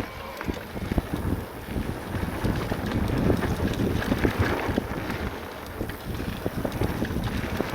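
Wind buffeting the microphone over a steady low rumble, with frequent small clicks and rattles.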